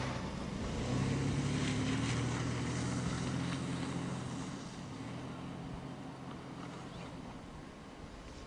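A motor vehicle's engine running with a steady low hum, loudest early on and fading away over the last couple of seconds.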